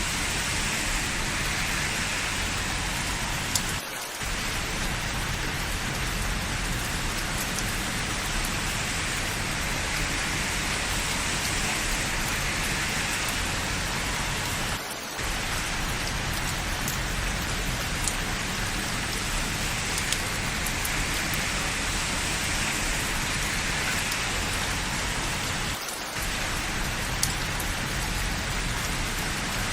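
Steady rain falling, with the odd drop ticking. The sound dips briefly three times, about eleven seconds apart.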